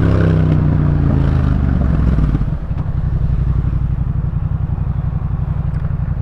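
Yamaha MT-07's 689 cc parallel-twin engine breathing through a Jeskap K4 full exhaust system. Its pitch falls as the throttle is rolled off, then about two and a half seconds in it drops to a steady low, pulsing putter at low revs.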